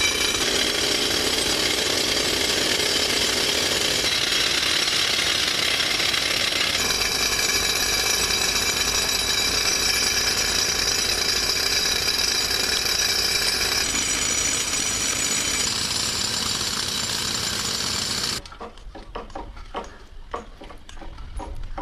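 Heavy earth-moving machinery running loudly with a dense, steady mechanical noise and high whining tones. The sound changes abruptly a few times, then cuts to much quieter scattered knocks and clicks near the end.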